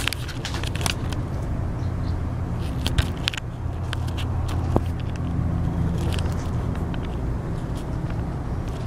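Steady low rumble of a motor vehicle engine running, with scattered light clicks and taps.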